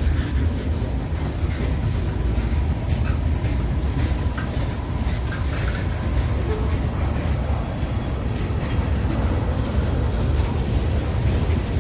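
A train rolling past: a steady heavy rumble with scattered clicks and knocks of wheels on the rails.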